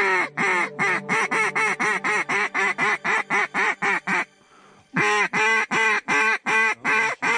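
Loud, rapid series of mallard-style quacks, about four a second, each call dropping in pitch; it breaks off about four seconds in and picks up again a moment later.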